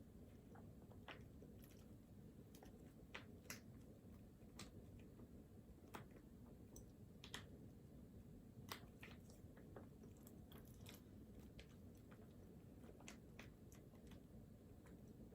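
Near silence: a low steady room hum with faint, irregular small clicks and taps, about one or two a second.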